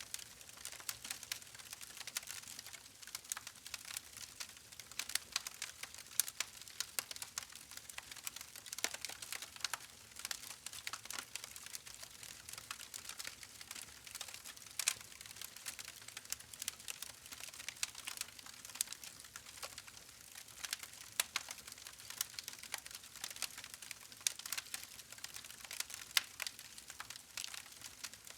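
Campfire crackling: a dense, irregular stream of sharp pops and snaps over a soft hiss of burning wood.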